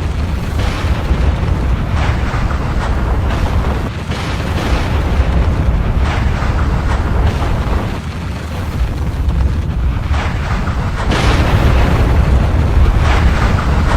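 Volcanic eruption: a continuous deep rumble with repeated crackling bursts, dipping briefly twice and growing louder about eleven seconds in.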